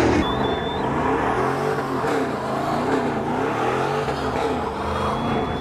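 Truck engine being revved up and down over and over, about once a second.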